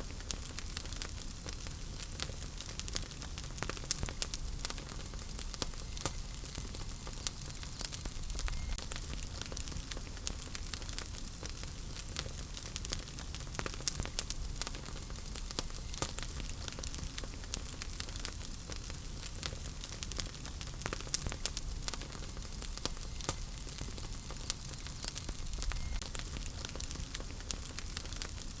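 Wood fire burning in a fireplace, crackling with frequent irregular sharp pops and snaps over a steady hiss and low rumble of the flames.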